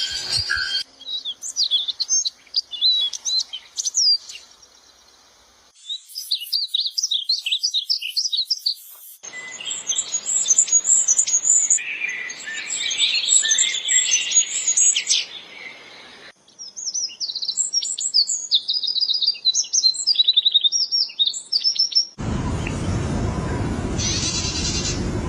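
Songbirds chirping and trilling in quick, high notes, in several abruptly joined stretches where the calls change from one stretch to the next. About three seconds before the end the birdsong gives way to a steady noisy sound.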